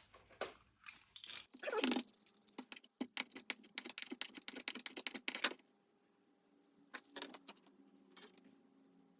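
Rapid rattling and clicking of small hard parts being handled, from a lawn mower's recoil pull-start assembly as its new cord is threaded in. It goes on for about five and a half seconds, then gives way to a few single clicks.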